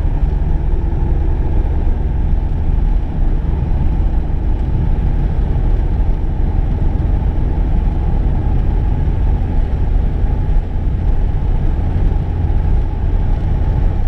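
Steady interior road and engine noise of a VW Golf II driving: a continuous low rumble heard from inside the cabin.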